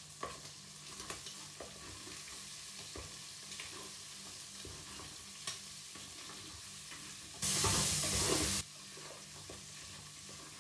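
Chicken gizzards sizzling in sunflower oil in a stainless steel pot as they are stirred with a spatula, with faint taps of the spatula against the pot. About three quarters of the way through, a louder hiss flares for about a second.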